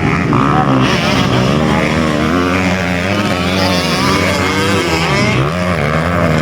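Several dirt-bike engines revving together, their pitches rising and falling over one another as the motorcycles race.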